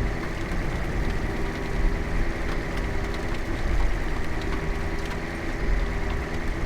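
A vehicle engine running steadily, a low rumble with a constant hum.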